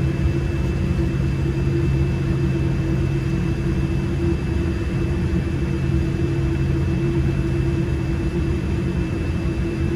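Cabin noise inside a Boeing 787-8 on the ground before takeoff: a steady low hum from its GE GEnx engines at idle and the cabin air system, with a faint steady high whine over it.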